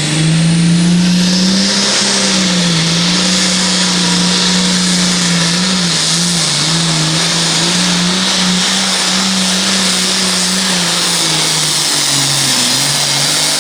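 Farm pulling tractor's diesel engine running flat out under load as it drags the weight-transfer sled. The engine note holds high and steady, with a few brief dips, over a heavy rushing hiss.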